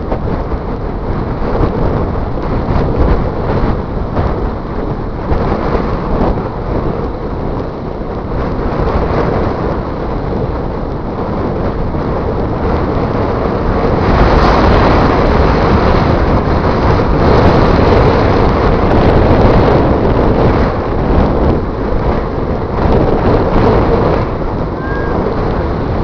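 Strong wind buffeting the microphone, a loud rough rush with surf beneath it; the gusts grow stronger about halfway through.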